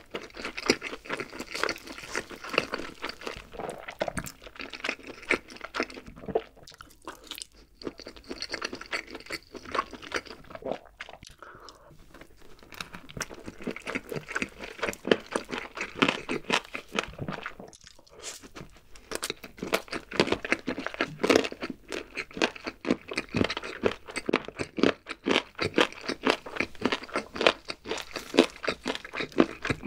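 Close-miked biting and chewing of spicy barbecue-glazed grilled chicken leg: crunching and chewing over and over, with a few brief pauses.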